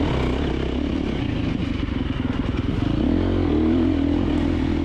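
KTM 350XC-F four-stroke single-cylinder dirt bike engine running under throttle, heard on board. The engine pitch rises and falls about three seconds in as the rider works the throttle, with some clatter from the bike.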